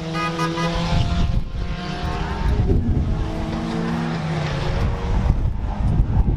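BriSCA F2 stock car engine running under load, its pitch climbing as the car accelerates, dropping after about a second and climbing again, over a steady rumble of road and wind noise.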